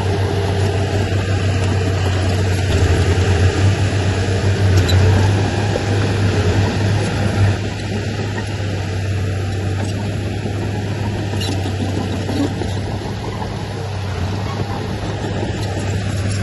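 Heavy diesel engine of an earthmoving machine running steadily with a deep drone. It gets a little louder for a few seconds, then eases off about eight seconds in.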